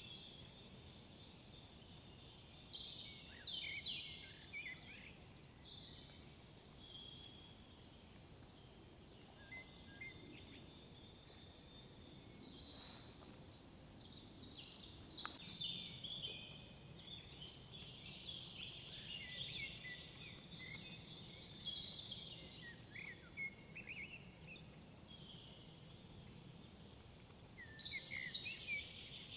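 Several songbirds singing in woodland, their phrases overlapping, with one bird repeating a high, rapid trill about every seven seconds. A faint low background hum lies underneath.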